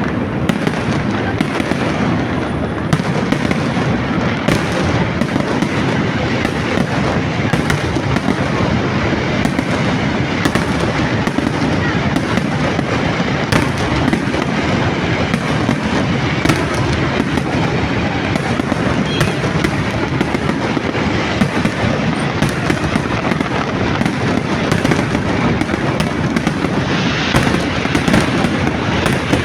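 Fireworks going off in a dense, continuous barrage: many sharp cracks and pops over a steady rumble, with no break.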